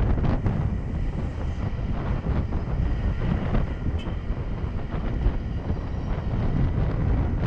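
Wind buffeting an action camera's microphone while a Honda 125cc motorcycle rides along, its engine and road noise running steadily under the wind.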